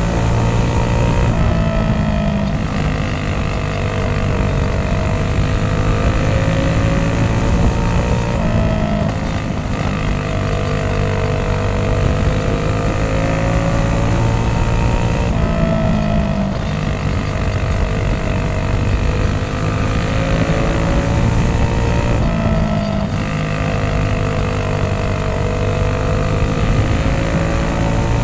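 Small go-kart engines racing on a dirt oval. The engine note falls, then climbs back up, in a cycle that repeats about every seven seconds, the way it would lap after lap.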